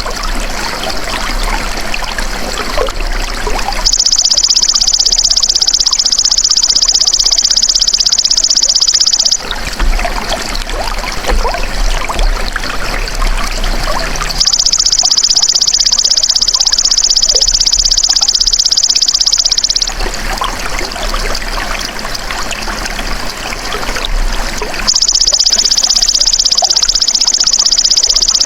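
Belalang emas ('golden grasshopper') insect calling: a loud, rapidly pulsing high buzz in three long bouts of about five seconds each, with pauses between. A steady trickle of running water carries on underneath.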